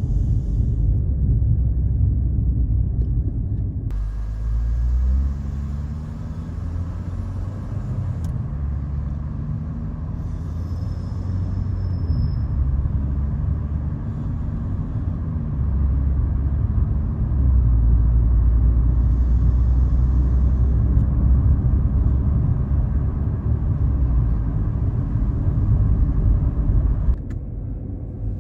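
BMW 540i's B58 turbocharged 3.0-litre inline-six on an ARP aftermarket exhaust, driving with a deep, low exhaust drone. Several seconds in, its pitch climbs in steps through gear changes, then it settles into a steady drone.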